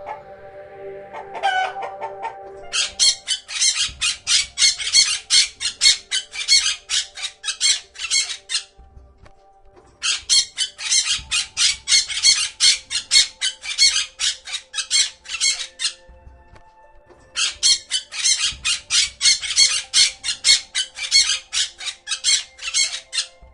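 A domestic fowl giving rapid, harsh, repeated squawking calls, about three to four a second, in three bouts of several seconds each, with faint background music.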